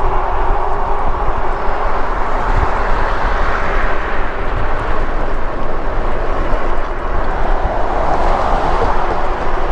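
Steady wind and road noise on the microphone while riding an e-bike, with a faint steady hum underneath.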